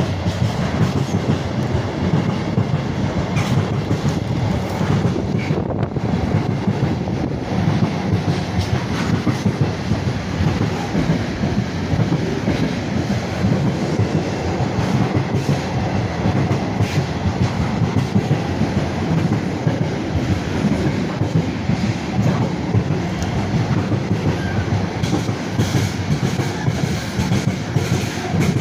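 Freight train hauled by a Class 66 diesel locomotive, its wagons rolling past steadily with a continuous heavy rumble.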